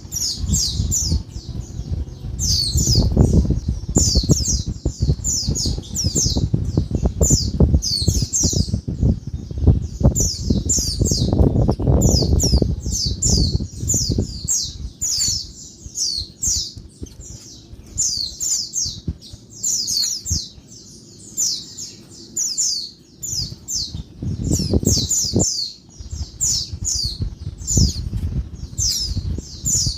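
Female pleci (white-eye) calling noisily: short, high, thin calls in rapid runs, several a second with brief gaps. A low rumbling noise comes and goes underneath.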